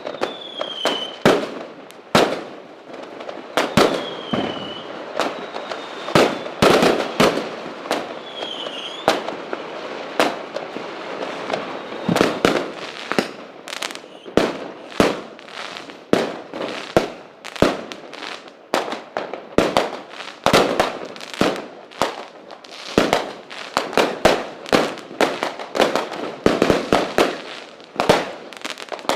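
Fireworks going off: a long, irregular barrage of sharp bangs and pops, several a second at times, with crackling in between and a few short whistles.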